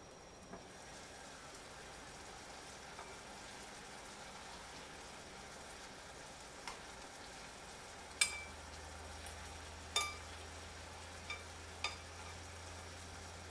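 Chicken pieces and tomatoes sizzling faintly in the base of a clay tagine over a gas flame, the hiss growing once the lid comes off. Several sharp, ringing clinks of metal tongs against the pot as the pieces are turned, the two loudest about eight and ten seconds in.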